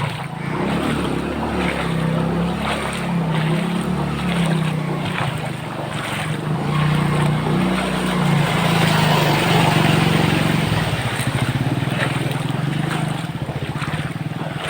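An engine running, its low pitch drifting up and down, with water splashing and sloshing through floodwater.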